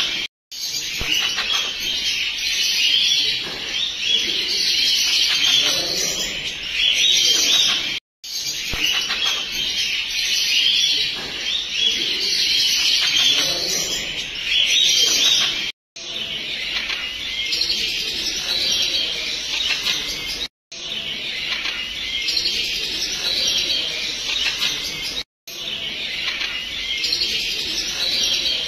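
Continuous bird chirping and chattering, busy and fairly loud, cut off abruptly by a few very short silences.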